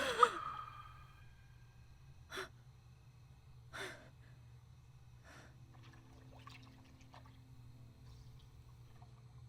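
A person's voiced gasp, wavering in pitch, at the start, then two sharp breaths about a second and a half apart and a fainter third. Faint low sustained tones come in about halfway through.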